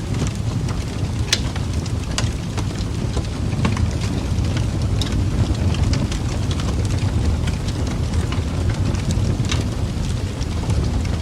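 Wood fire crackling: irregular sharp pops and snaps over a steady low roar of flame.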